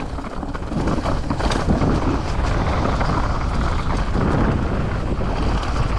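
Mountain bike rolling fast down a rough trail: tyres over dirt and rock with a constant rattle and many small knocks, and wind buffeting the microphone.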